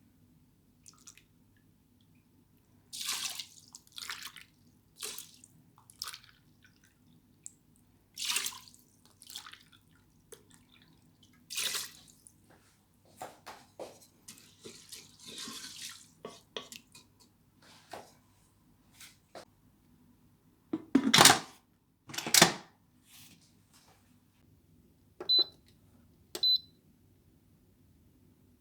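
Kitchen sink work: a tap's water running in short, irregular spurts and splashing, with two louder knocks about three-quarters of the way in. Two short high beeps from an appliance's buttons come near the end, over a low steady hum.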